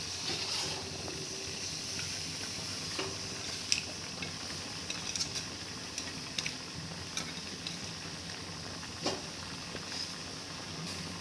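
Food frying in a pan, a steady sizzling hiss, with a few sharp clicks of a utensil stirring it against the pan.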